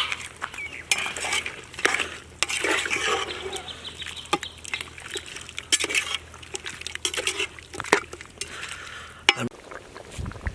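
A ladle stirring chicken gravy in a cooking pot, with repeated clinks and scrapes against the pot over a sizzling, bubbling haze, just after water has been added. A sharp clink about nine seconds in, then quieter.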